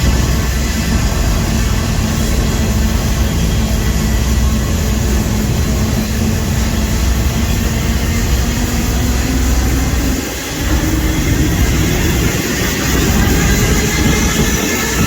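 Freight train rolling along with a steady, loud low rumble, dipping briefly about ten seconds in.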